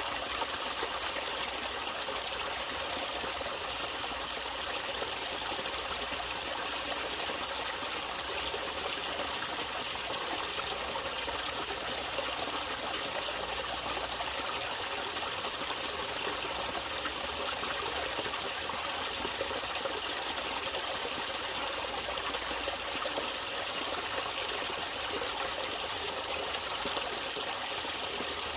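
Natural running water trickling and flowing steadily, a continuous splashing hiss with no change.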